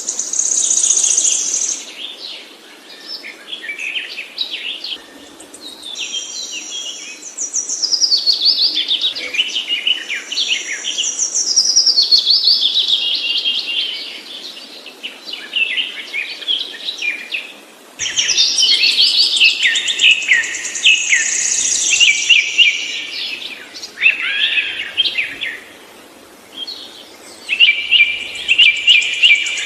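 Songbirds singing: bouts of rapid, high chirps and trilled phrases that fall in pitch, with short pauses between bouts.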